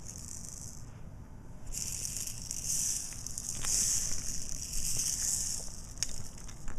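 Crinkly rustling that comes and goes in bursts, with a few sharp clicks near the end.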